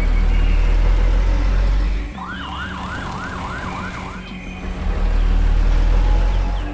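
Emergency vehicle siren in a fast yelp, about four rising-and-falling sweeps a second, sounding for about two seconds in the middle. Before and after it a loud deep rumble of vehicle sound dominates.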